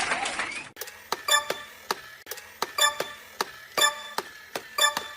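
Regular ticking, about two sharp ticks a second, each with a short bright ring like a clock's tick.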